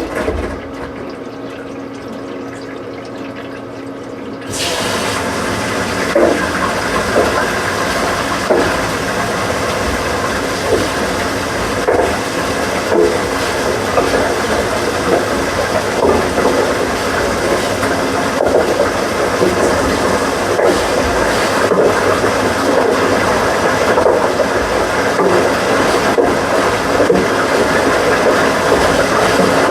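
A washing machine running, which about four and a half seconds in suddenly gets much louder: a steady rushing noise over a motor hum, with irregular knocks.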